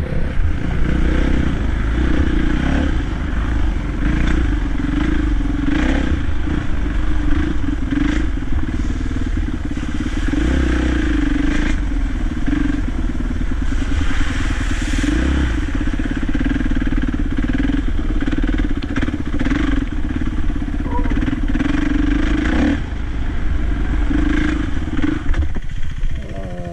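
Dirt bike engine running hard and steady during an off-road ride, with scattered knocks and clatter over rough ground. Near the end the engine eases off and its pitch falls.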